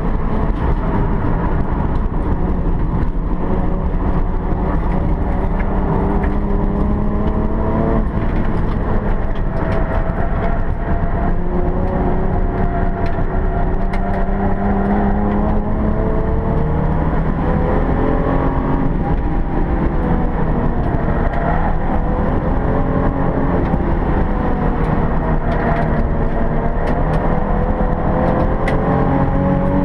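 Alfa Romeo 164 race car's engine heard from inside the cabin on track, its pitch climbing under acceleration, dropping sharply at a gear change about eight seconds in, then rising and falling with throttle through the corners.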